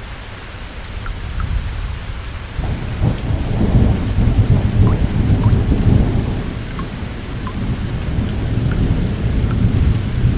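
Steady rain with thunder: a long low rumble builds about three seconds in, peaks for several seconds, then eases into a lingering roll under the rain.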